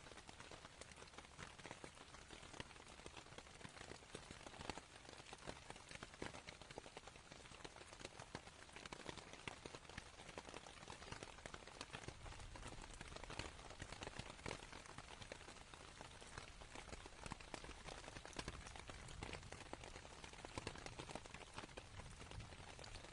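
Rain pattering faintly on canvas, a dense, even run of small drop taps. A low rumble swells about halfway through and again near the end.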